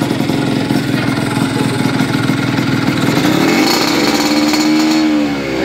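Yamaha RX-Z two-stroke single-cylinder engine breathing through an aftermarket under-belly muffler: it runs at a rapid, pulsing idle, then is revved up about three seconds in, held, and let back down near the end.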